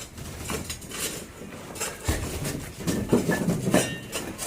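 Irregular knocks, clinks and scrapes of tools and materials being handled during manual construction work.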